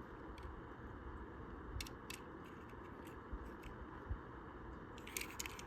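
Faint clicks and light crunchy rustles of a small die-cast toy car and its plastic packaging being handled, a few scattered ticks then a short cluster near the end, over a steady low hiss.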